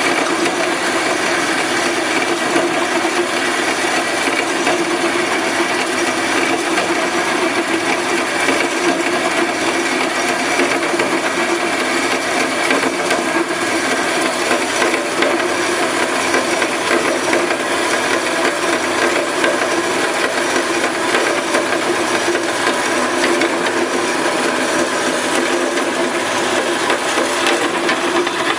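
Roll In 8-inch vertical bandsaw with a fine-toothed blade running and cutting through a clamped workpiece under its weighted gravity feed: a steady, even cutting noise that goes on without a break.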